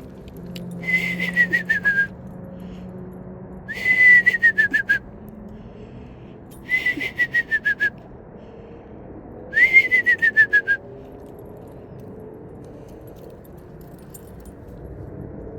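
A person whistling an imitation of a screech owl's descending whinny, four times: each call is a quick wavering trill of about a second that slides down in pitch, with a pause of two seconds or so between calls.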